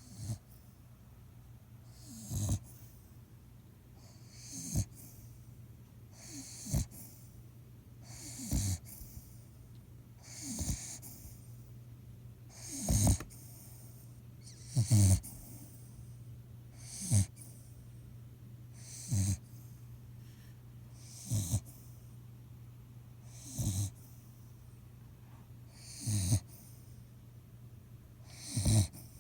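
Sick dog snoring in its sleep, one loud snore about every two seconds, very regular, each with a falling pitch.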